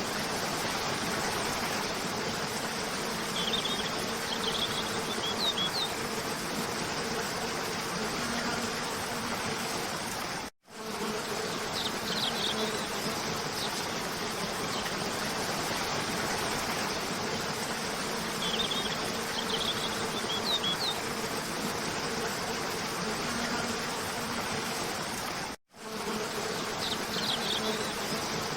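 Steady rush of a cascading waterfall with a low even buzz, and short clusters of bird chirps every few seconds. The sound cuts out for a split second twice, about fifteen seconds apart, where the looped recording restarts.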